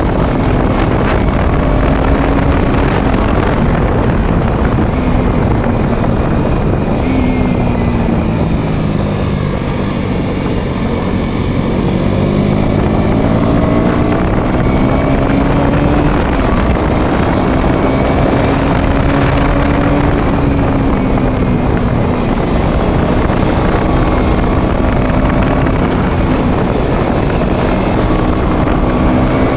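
Motorcycle engine running on the move, with wind noise on the microphone; the engine note drops for a few seconds about a third of the way in, then climbs back and holds steady.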